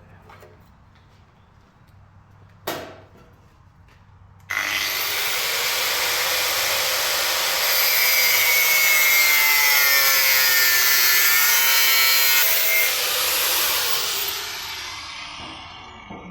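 A single sharp knock, then a power tool with a cutting disc cuts into the car's sheet-metal body. It starts suddenly about four seconds in and runs loud and steady for about nine seconds, its pitch sagging partway through. It then winds down with a falling whine.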